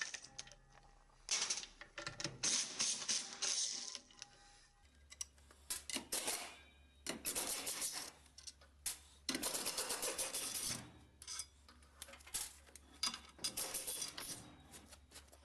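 Metal tools clicking and rattling in short irregular bursts while the bolts of an engine's clutch pressure plate are undone and the plate is taken off the flywheel.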